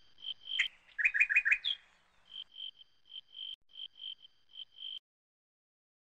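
Bird calling: a run of short, evenly repeated high chirps, about three a second, with a louder burst of four quick, lower notes about a second in. The calls stop about a second before the end.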